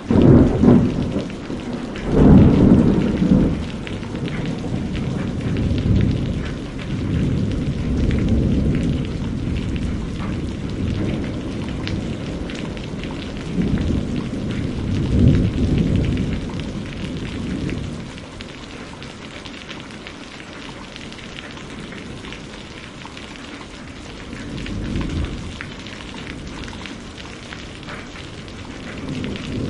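Steady rain falling, with repeated low rolls of thunder; the loudest rumbles come about two seconds in and around the middle, and it eases to a quieter rain hiss in the later part with one more rumble near the end.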